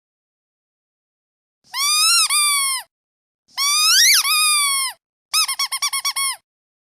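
Squeaky duck toy being squeezed: two long squeaks, the second with a pitch that swoops up and back down in its middle, then a quick run of about eight short squeaks.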